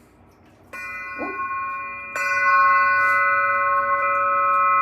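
Glass singing instrument struck twice, about a second apart and then a second and a half later. Each strike starts a clear, steady ringing of several pure tones that keeps sounding and builds on the first.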